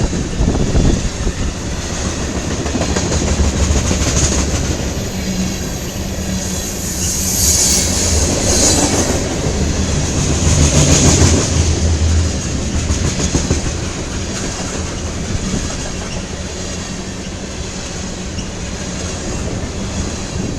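CSX local freight train's cars rolling past, a steady rumble with wheels clacking over rail joints and a high hiss from the wheels that swells a couple of times.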